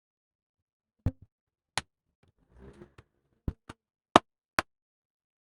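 Sharp clicks and taps of a laptop's parts and tools being handled during disassembly: about eight separate clicks spread over four seconds, with a brief faint scraping rustle in the middle.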